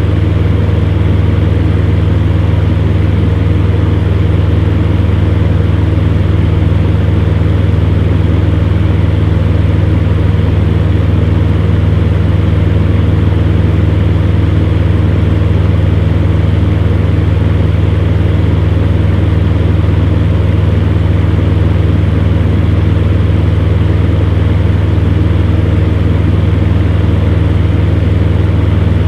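Electric fan heater running steadily: a low motor hum with a few steady tones above it and the even rush of blown air.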